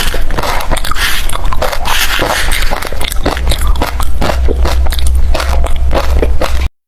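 Close-miked crunching of hard refrozen crushed ice being bitten and chewed, a dense run of irregular crackling crunches. It cuts off abruptly just before the end.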